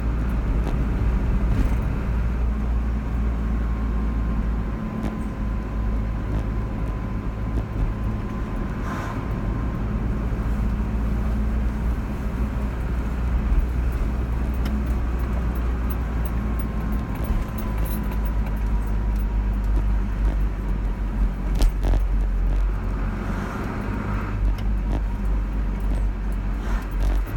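Car driving at a steady speed: a continuous low rumble of engine and road noise, with a few small clicks or rattles.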